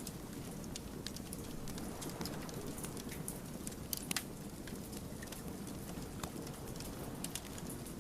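Burning firewood crackling: a steady low rush of flame with scattered sharp pops and snaps, a small cluster of louder pops about four seconds in.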